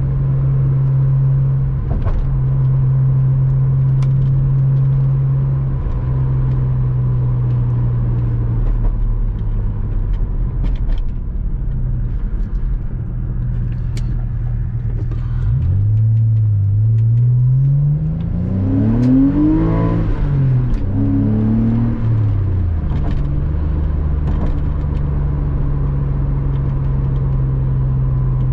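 Porsche Boxster 986 flat-six engine running at a steady cruise. About halfway through, its pitch climbs as the car accelerates, then falls back off the throttle and settles into a steady cruise again.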